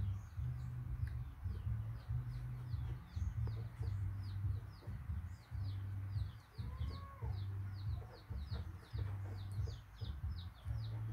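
Birds chirping: a quick, steady string of short, high, falling chirps, several a second, over a low, uneven rumble.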